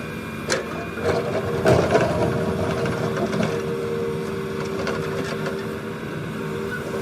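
Diesel engine of a JCB 3DX backhoe loader working while loading soil. There is a burst of clattering knocks about one to two seconds in, then a steady whine over the engine.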